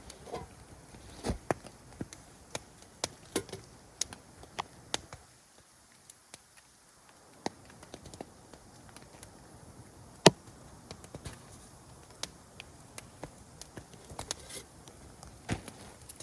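Wood campfire crackling: irregular sharp pops and snaps, with one loud pop about ten seconds in.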